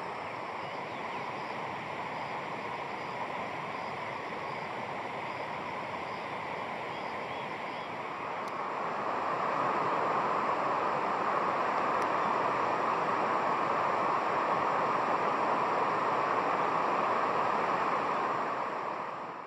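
Steady rushing water noise, like a stream or small waterfall, growing louder about halfway through. A faint, high, evenly repeating chirp sounds over it during the first half.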